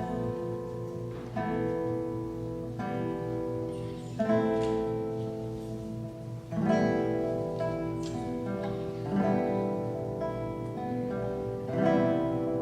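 Solo classical guitar playing a slow piece: plucked notes and chords struck every second or so and left to ring, with stronger accented chords about four, six and a half and twelve seconds in.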